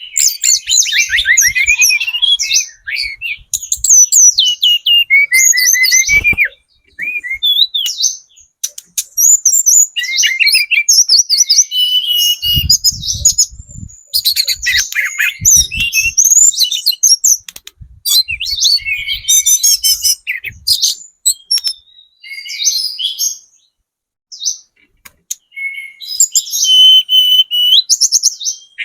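Tledekan gunung (spotted 'trotol' shortwing) singing rapid, high-pitched twittering phrases in bursts, with short pauses between them. A few low thumps come in between.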